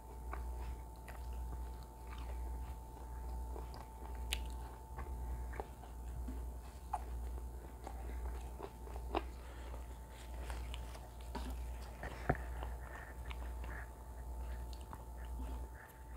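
A person chewing mouthfuls of mutton kofta curry and flatbread, in an even rhythm of about one chew a second, with occasional wet mouth clicks.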